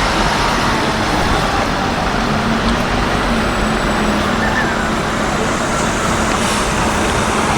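Busy city-street traffic noise: a steady, dense rumble of engines and tyres from buses and cars, with one vehicle's engine hum standing out briefly partway through.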